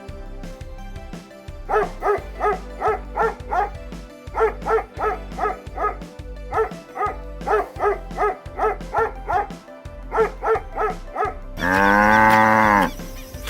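A dog barking in quick runs of short yaps, about three a second. Near the end a cow gives one long moo.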